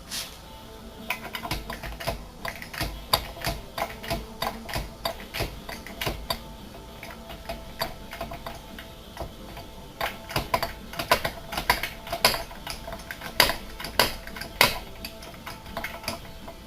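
An irregular run of sharp clicks and taps, denser and louder from about ten seconds in, over music.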